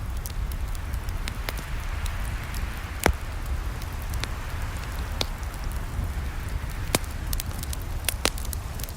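Campfire crackling: irregular sharp pops and snaps of burning wood over a steady low rumble and hiss of the flames, with the loudest pop about three seconds in and another near seven seconds.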